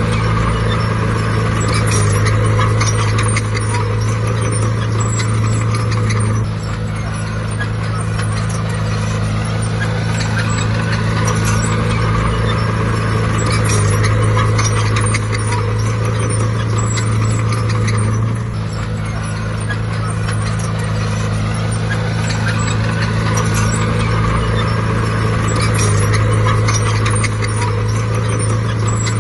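Bulldozer's diesel engine running under load, with a steady low hum that swells and eases in a slow repeating cycle.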